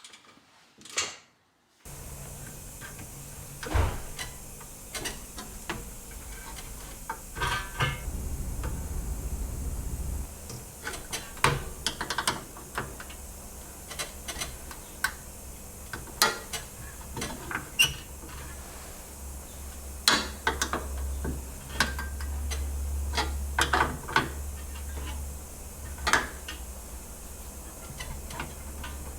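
Irregular mechanical clicks and taps, like parts being handled and fitted, over a steady low hum. The hum starts about two seconds in, after a near-silent start.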